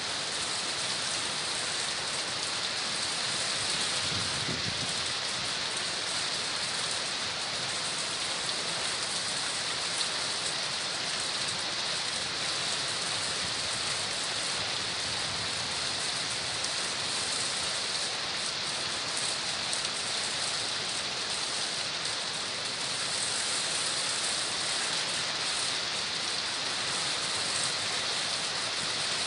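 Heavy typhoon rain pouring steadily onto the street and rooftops.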